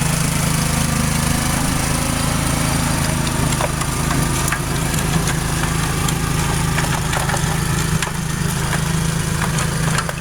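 Craftsman gas leaf blower's small engine running steadily at a constant speed.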